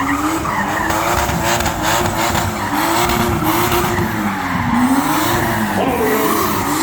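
Drifting car's Toyota 2JZ straight-six revving up and down as it slides, with the tyres squealing.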